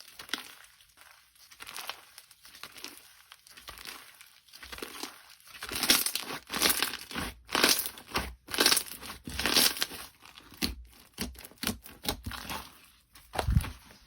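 Slime being handled by hand: a run of short, noisy sticky crackles and squishes, faint at first and louder from about halfway through.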